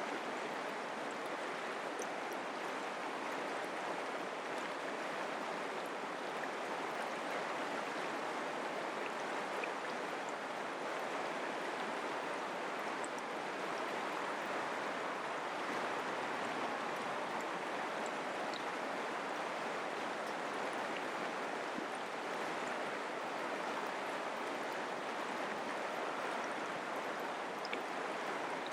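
Mountain creek water rushing and burbling over rocks, a steady even flow.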